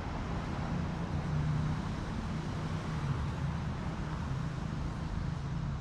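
City street traffic: a nearby motor vehicle's engine running with a steady low hum over general traffic noise.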